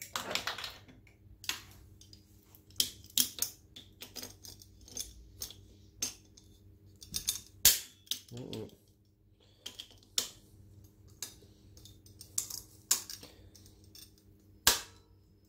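Irregular sharp metallic clicks and taps of locking pliers (vice grips) clamping on and slipping off a seized, half-stripped Phillips screw on the engine. A faint steady hum runs underneath.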